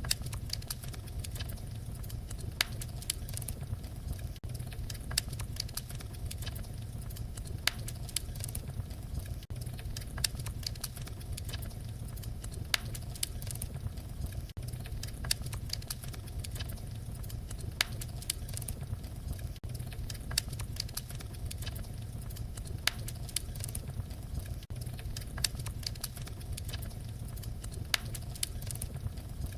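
Wood fire crackling: frequent sharp pops and snaps over a steady low rumble of burning.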